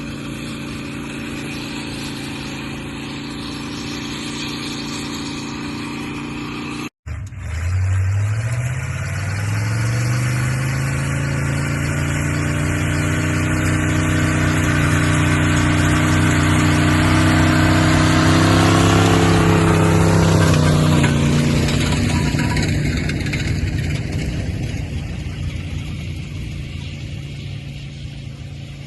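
Linn tractor engine running steadily, then after a brief cut about seven seconds in its pitch climbs as it accelerates under load and grows louder. Around twenty-one seconds the pitch falls sharply and the sound fades.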